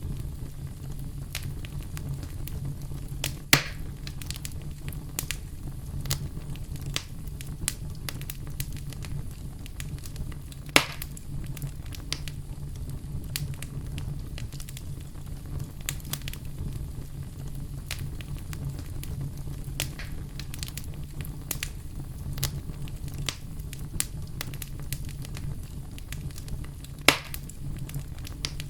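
Campfire crackling: a constant scatter of small snaps and ticks over a steady low rumble, with three louder pops, about three seconds in, around eleven seconds, and near the end.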